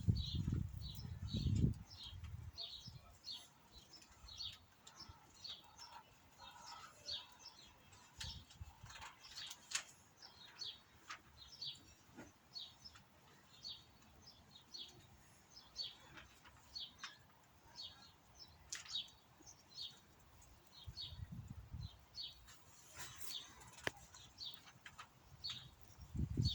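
A small bird chirping, with short high notes repeating about twice a second. Low muffled rumbles come at the start and again about 21 seconds in.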